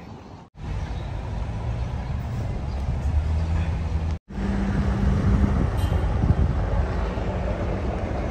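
Engine of a motor vehicle running close by: a loud, low rumble with steady low tones. It starts abruptly about half a second in and cuts out for an instant near the middle.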